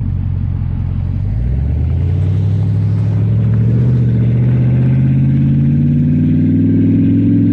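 Dodge Charger Daytona's Hemi V8 running loud with its exhaust cut off, no mufflers. It idles, then its engine speed climbs slowly and steadily from about a second and a half in. The sound is likened to a Chevy with cherry bombs.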